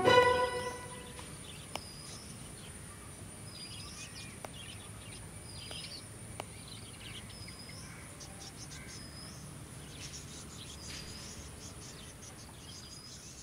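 A music cue ends in the first second, leaving quiet ambience: a bird repeats a short, hooked chirp every couple of seconds over a low steady hum, with a few faint clicks.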